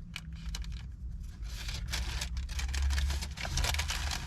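Paper fast-food packaging handled close to the microphone: rapid, irregular crinkling and tearing that grows denser about halfway through, over a low rumble.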